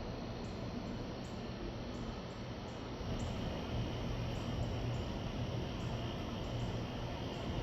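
Steady outdoor background noise that grows a little louder about three seconds in, with faint, short, high-pitched chirps repeating irregularly about every half second.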